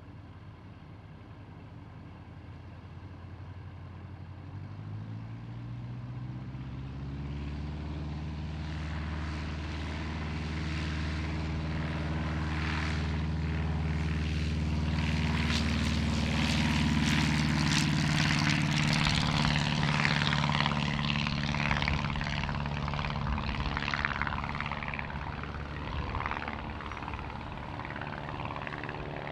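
Light propeller aircraft's piston engine: its pitch rises a little about five seconds in, then the engine grows steadily louder to a peak about two-thirds of the way through as the plane passes closest, and fades away toward the end.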